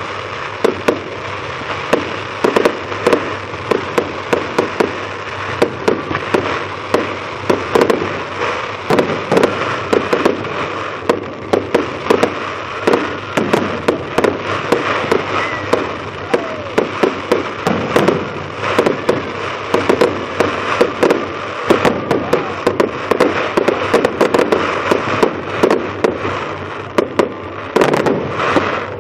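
Aerial fireworks going off in a rapid, continuous barrage: many sharp bangs a second over a steady hiss of noise.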